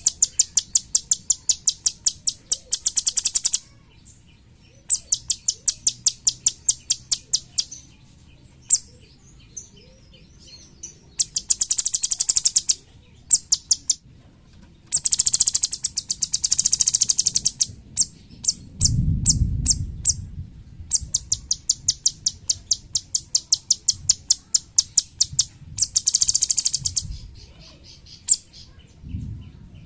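A cucak cungkok songbird singing: repeated bursts of rapid, sharp, high notes, each burst lasting one to three seconds, with short pauses between them. A low thump is heard about 19 seconds in.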